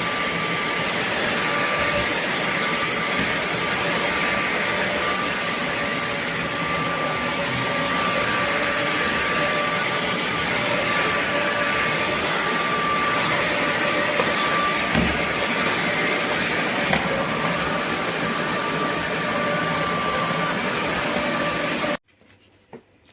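Roborock F25 ACE cordless wet/dry vacuum running steadily, a loud rush of air with a thin high whine over it, then switched off suddenly near the end.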